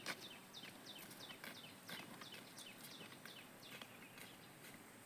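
Faint bird chirping: a run of short, quickly falling notes, about four a second, unevenly spaced.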